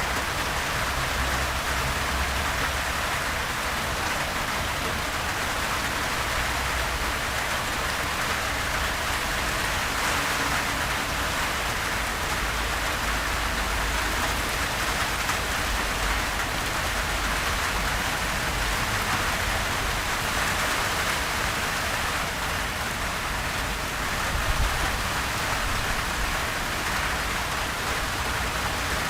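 Steady gentle rain falling on surfaces, an even hiss of many drops without thunder.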